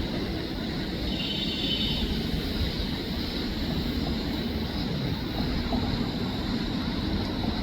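Steady low rumbling background noise, with a faint steady high tone and a brief high trill about a second in.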